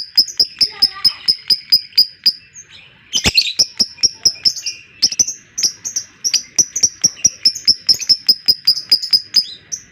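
Lovebird chattering in its long 'ngekek' call: a rapid run of sharp, high notes at about five a second. It breaks off briefly twice, and one louder, harsher note comes a little over three seconds in.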